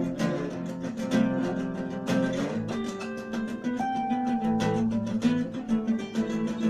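Acoustic guitar music, plucked and strummed, with quick note attacks and a steady low accompaniment.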